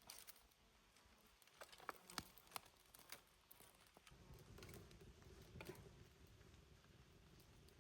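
Near silence with a few faint, scattered taps and clicks. A low rumble comes in about halfway through.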